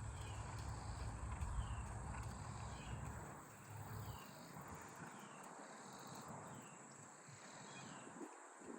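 Faint outdoor ambience: a high, short falling chirp repeats steadily about every half second. A low rumble, like wind on the microphone, runs under it for the first four seconds or so.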